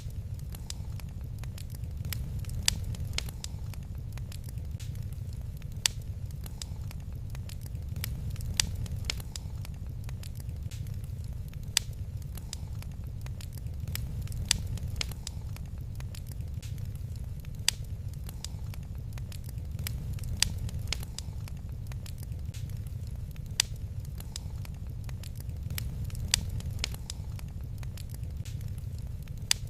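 Wood fire crackling in a fireplace: a steady low rumble under constant small crackles, with a sharper pop about every three seconds.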